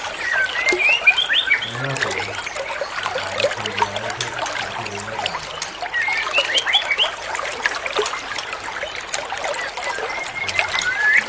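Trickling water running steadily, with two short flurries of quick, high bird chirps about a second in and again about six seconds in.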